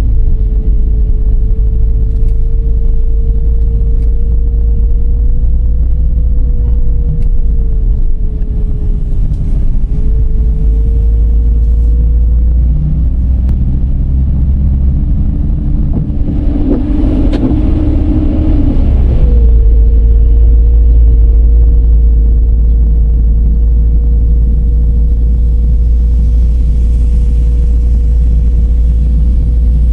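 Car driving along a road: a steady low rumble of engine and tyres with a constant hum. About halfway through, a louder rushing noise with a lower drone swells for a few seconds, then dies away.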